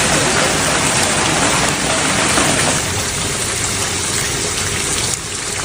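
Heavy rain pouring down in a storm: a loud, dense, steady hiss of water striking surfaces, easing slightly about five seconds in.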